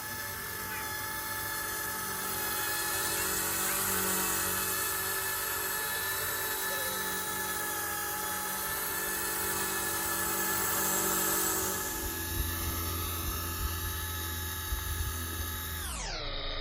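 Eachine E120 micro RC helicopter's electric motors and rotors running with a steady, high, multi-toned whine. Gusty wind rumbles on the microphone in the last few seconds. Near the end the whine drops away sharply as the motors spool down.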